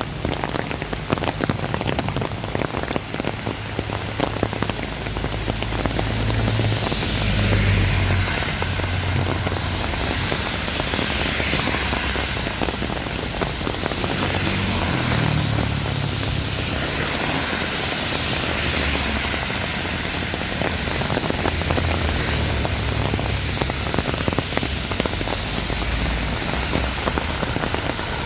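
Heavy rain falling and pattering densely on surfaces. Underneath it, a low rumble swells and fades several times.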